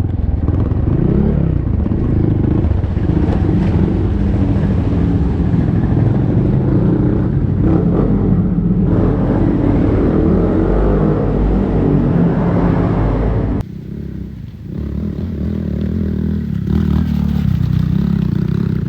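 Honda Monkey's single-cylinder engine running as the bike is ridden along a rough trail, its note rising and falling a little with the throttle. About two-thirds through, the sound suddenly drops in level and then comes back up over the next second or two.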